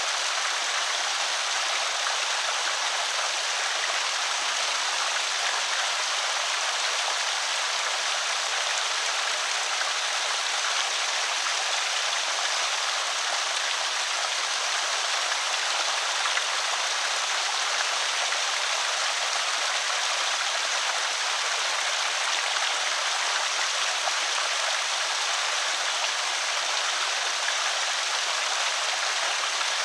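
Water pouring steadily over a small creek spillway, an even rushing splash.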